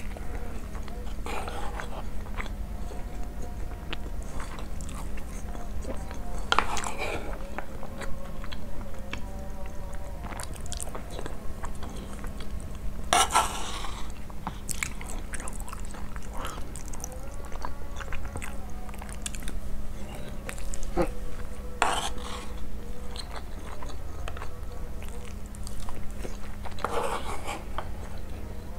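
Close-miked chewing and mouth sounds of eating basmati rice: many small clicks with a few louder short bursts, the loudest a little after halfway, over a faint steady hum.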